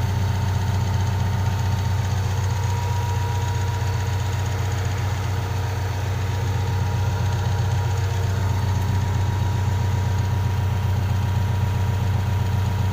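Diesel engine of a tracked excavator running steadily, a low pulsing hum with a faint steady whine above it.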